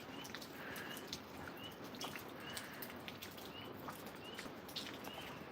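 Tree frogs calling in the rain: short, high chirps that rise at the end, about one a second, over a steady hiss of rainfall with scattered faint drips.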